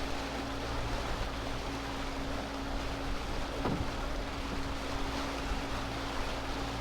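Fishing boat's engine running steadily under way at sea, a constant hum with wind and water noise over it. A single short knock comes about three and a half seconds in.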